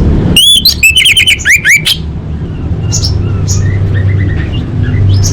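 Orange-headed thrush (anis merah) singing: a loud, rapid run of whistled, gliding notes in the first two seconds, then quieter scattered chirps. A steady low hum runs underneath.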